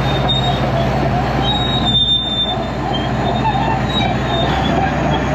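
IH Dresser TD25G crawler dozer's diesel engine running steadily, with short high-pitched squeals of its steel tracks as it moves.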